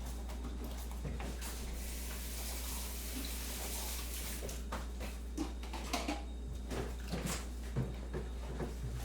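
Kitchen sounds: a stretch of running water for a few seconds, then a run of light clinks and knocks of crockery and utensils, over a low steady hum.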